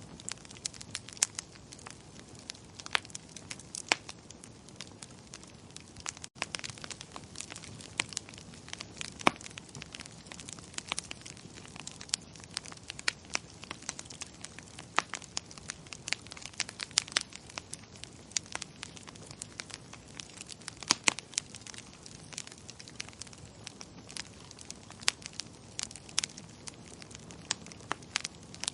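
Wood fire in a fireplace crackling: frequent, irregular sharp pops and snaps over a steady low hiss, with a momentary dropout about six seconds in.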